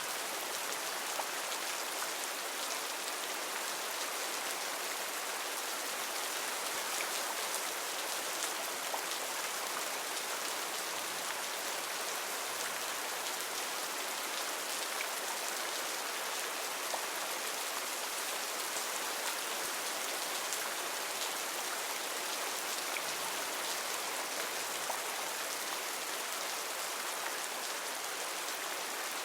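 Heavy rain falling steadily, an even hiss of drops with scattered individual drop ticks.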